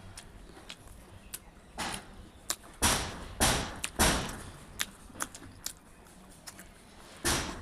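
Close-miked eating: loud, short crunching bites of crisp fried food, three in quick succession about three seconds in and another near the end, with faint chewing clicks between them.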